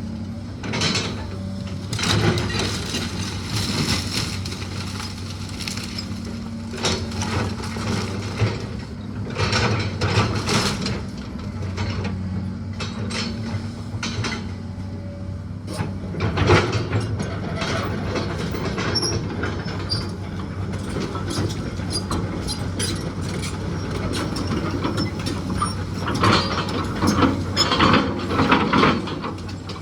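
A machine's engine running steadily through a house demolition, with repeated crunching, cracking and clanking as the old wooden structure is broken apart.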